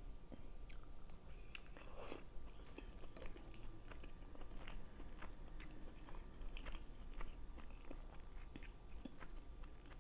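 A person chewing a mouthful of food, a steady run of small wet clicks and crunches.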